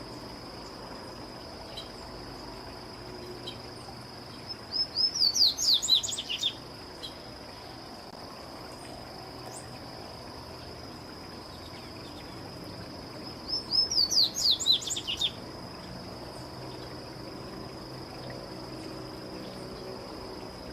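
A papa-capim baianinho seedeater singing two song phrases about eight seconds apart, each a quick two-second run of high, sliding notes. A steady, high insect trill runs underneath.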